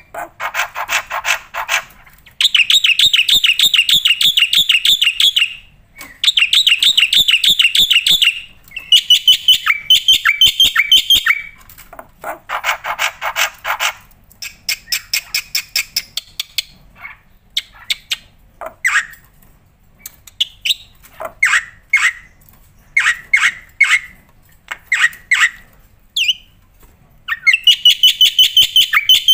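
Black-winged myna (jalak putih) singing a loud, varied song: long bouts of fast rattling, chattering notes broken by short pauses, with a stretch of separate sharp calls about two a second in the middle.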